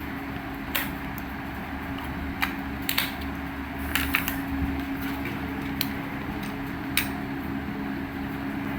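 Scattered clicks and light taps of a plastic toy and its packaging being handled, about six in all, over a steady low hum.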